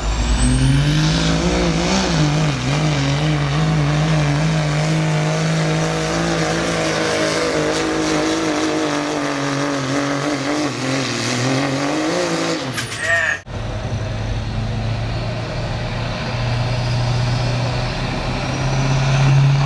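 Diesel pickup engine held at full throttle while pulling a sled, its note steady with slight wavering and a high whistle above it. About 13 seconds in the sound cuts off abruptly, and a lower, steady diesel engine drone follows.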